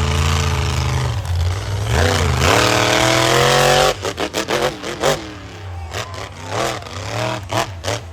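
Avenger monster truck's engine running hard under throttle, dipping about two seconds in and then revving up strongly; just before halfway the throttle snaps shut and the engine is blipped in a quick series of short revs.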